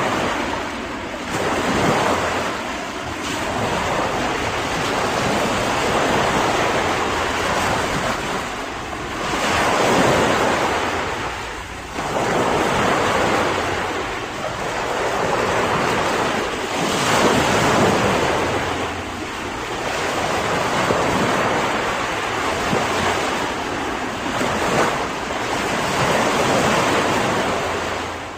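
Ocean surf: waves breaking and washing in, swelling and falling away every few seconds.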